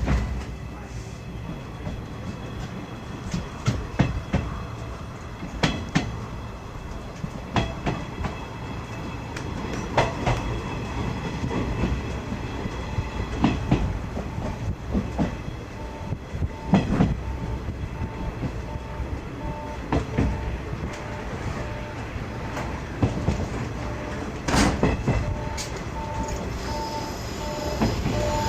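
50-series passenger coach running along the line: a steady rumble with irregular clatter of the wheels over rail joints. Near the end a repeating ringing tone joins in.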